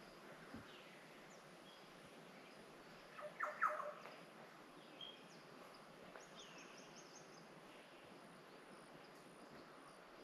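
Wild birds calling in tropical wetland forest: a short burst of loud, harsh calls about three seconds in, then a quick high trill of about eight notes, with scattered faint chirps over a low steady background.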